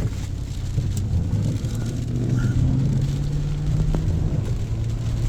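Car engine running, heard from inside the cabin as a steady low drone.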